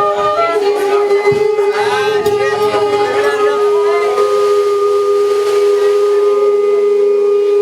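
A steady, held drone tone that stays on one pitch, with fainter wavering tones above it. Near the end a lower note slides in beneath it.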